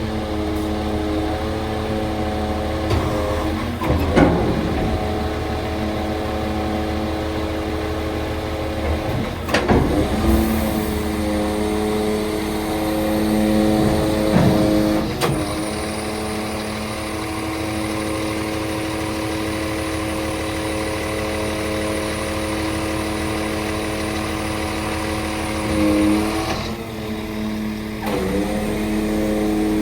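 Scania R490 hook-loader truck's engine running steadily. There are a few brief clunks and shifts in pitch, about four seconds in, around ten and fifteen seconds, and again near the end.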